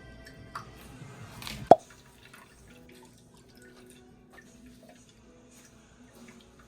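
A single sharp knock or drop-like plop with a brief ringing tone, a little under two seconds in, then a few faint ticks over quiet background music.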